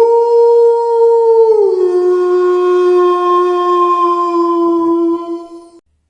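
A wolf howling: one long call that holds a steady pitch, drops to a lower pitch about one and a half seconds in, holds again and ends just before the close.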